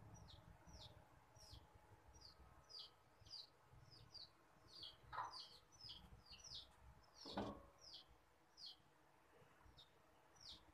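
Small birds chirping faintly and repeatedly: short falling chirps, two or three a second. Two soft knocks about five and seven seconds in.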